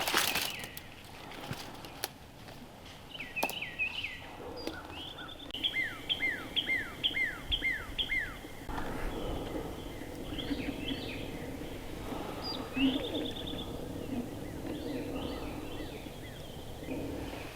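A songbird singing a quick series of about seven falling whistled notes, roughly two a second, with other scattered chirps and a short buzzy trill later on. A low steady hum comes in about halfway through.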